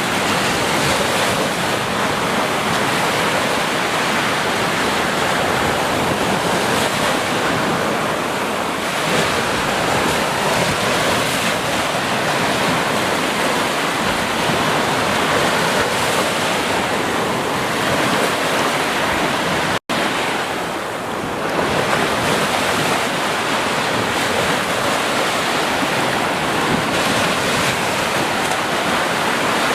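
Ocean surf washing continuously onto a beach, a dense steady rush that swells and eases gently. It cuts out for a split second about two-thirds of the way in.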